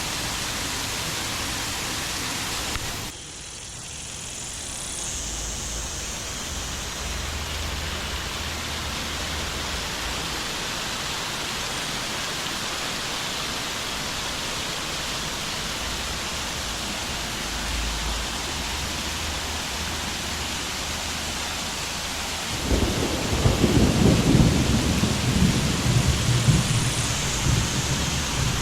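Steady rushing of water, an even hiss. A deeper rumble comes in suddenly near the end and the sound grows louder.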